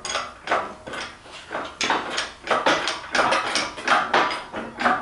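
Irregular metallic clanks and rattles from a shop engine crane being shoved and rocked into position with the engine hanging from it.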